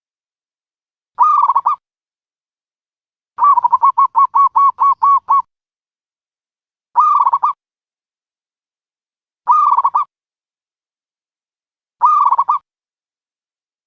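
Dove calls played as a trapping lure: short calls repeated about every two and a half seconds, with one rapid run of about ten notes in the first half.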